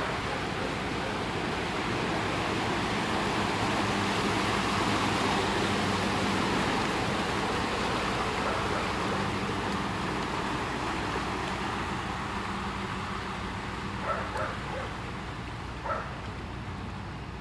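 Floodwater rushing and swirling down into a street storm drain, a steady rushing that swells slightly in the middle, with a few short faint sounds near the end.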